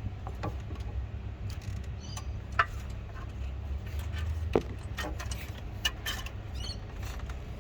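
Scattered sharp metal clicks and clinks of tools and car parts being handled, over a steady low hum; the loudest clicks come about two and a half and four and a half seconds in.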